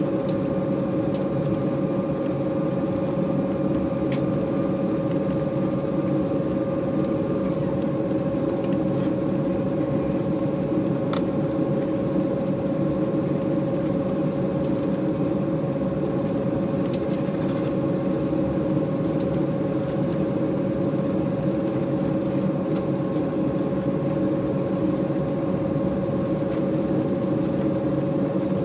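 Steady cabin hum of an Embraer E190 jetliner, its two General Electric CF34 turbofans running at low power on the ground, with a constant mid-pitched tone over a low rumble. A higher tone cuts off about seven seconds in, and there are two faint clicks.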